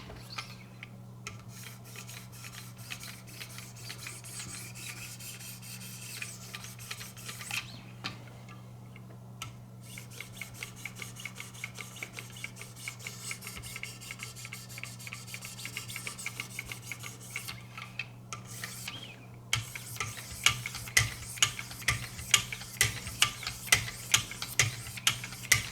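2200-grit diamond sharpening stone stroked along a VG-10 knife edge on a guided sharpening system: a continuous scraping rub of many strokes, pausing briefly twice. In the last few seconds the strokes become louder and evenly spaced, about two a second. A steady low hum runs underneath.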